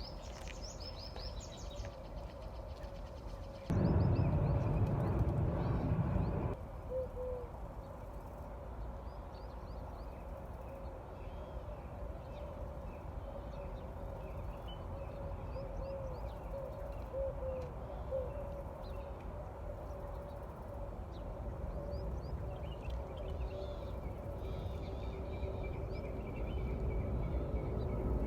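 Outdoor bird calls over a steady background hiss: quick high chirps near the start, then low, short curved calls a few seconds in and again about two-thirds of the way through. About four seconds in, a loud rush of noise starts abruptly and cuts off about three seconds later.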